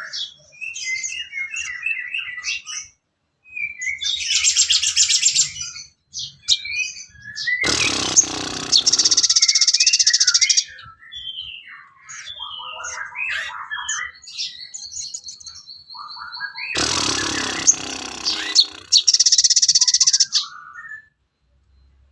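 Songbird song used as tutor material for a sogon bird: a quick run of varied chirps, trills and short whistles, with one held whistle, broken twice by a loud, harsh, noisy stretch of about three seconds.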